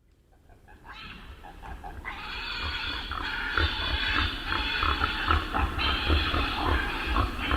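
A dense chorus of animal calls fading in from silence. Many short overlapping calls sit over steady high-pitched tones and a low rumble.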